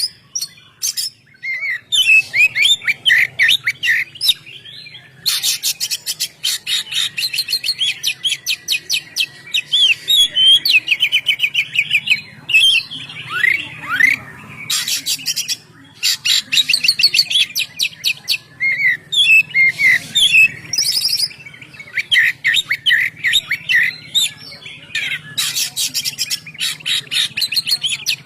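Oriental magpie-robin in full, loud song: a long run of varied phrases of rapid buzzy trills and clear whistled notes, one after another with only short pauses.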